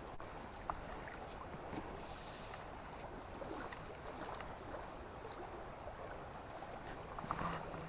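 River water running steadily over its bed, with a few faint ticks and splashes.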